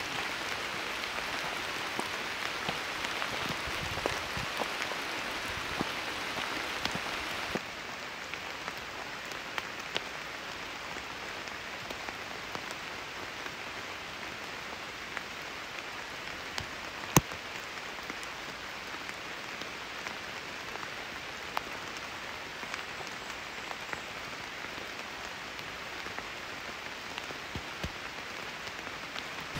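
Steady rain falling through forest foliage: an even hiss with scattered drip taps. It turns slightly quieter at a sudden change about a quarter of the way in, and one sharp, louder tap comes about halfway through.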